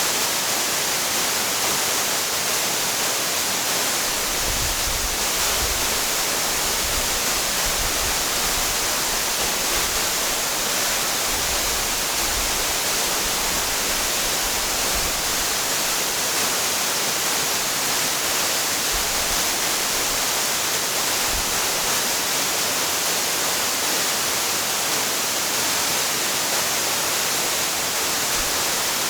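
Waterfall: a steady, even rush of falling water, with a few soft low rumbles now and then.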